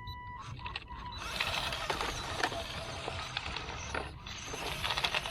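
Small RC truck running: a gritty hiss with fast clicking and rattling from its gears and wheels, starting about a second in and briefly dipping near the end. A short steady beep tone sounds at the very start.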